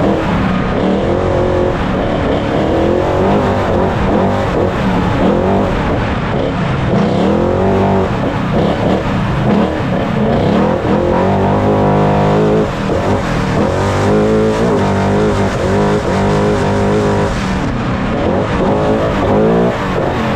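Off-road Trophy Truck's engine at full racing effort, revving up and dropping back over and over as it shifts and lifts, with constant rough-road and wind noise under it.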